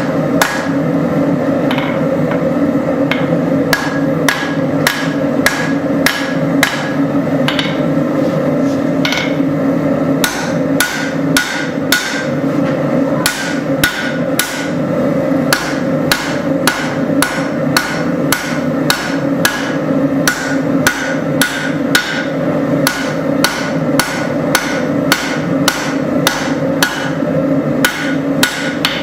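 Hammer blows on hot spring steel at the anvil while forging a knife blade, about two ringing strikes a second, settling into an even rhythm about halfway through, over a steady low background noise.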